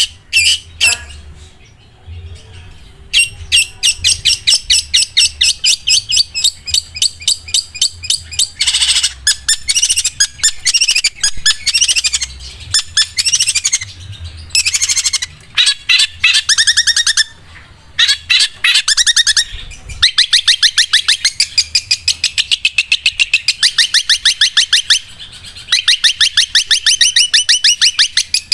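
Long-tailed shrike (cendet) singing its 'sewing machine' song: long runs of rapid, sharp, evenly repeated high notes like a sewing machine's stitching, broken by brief pauses.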